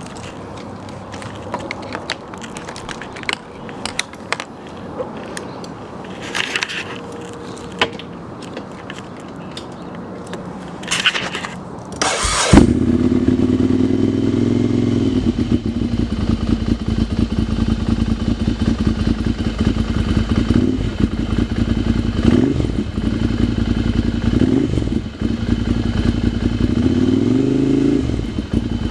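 A motorcycle engine is cold-started. About twelve seconds of small clicks and handling noises lead to the engine catching with a sharp bang. The revs flare up and settle to a steady idle, with a few short throttle blips and a rise in revs near the end.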